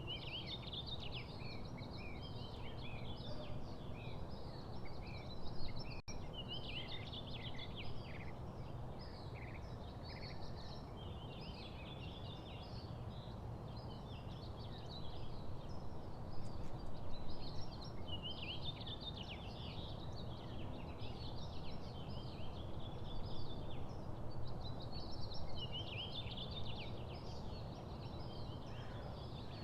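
Small birds chirping and twittering, many short calls overlapping throughout, over a steady low background rumble.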